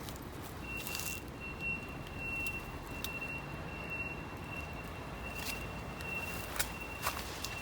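Scattered crackles and snaps of footsteps through dry brush, with a steady high thin tone starting about half a second in and breaking off for moments now and then.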